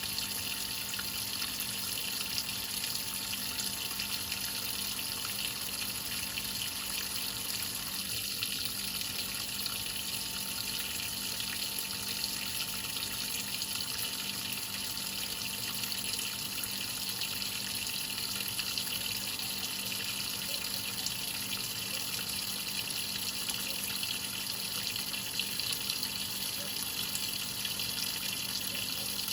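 Whirlpool top-load washing machine with water running steadily into its tub: an even hiss of pouring water with a faint low hum underneath.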